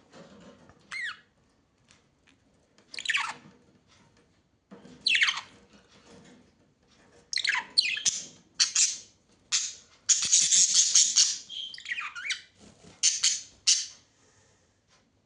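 Birds squawking: loud, harsh calls that sweep down in pitch, spaced a second or two apart, then a dense run of calling about ten seconds in and a few more calls near the end.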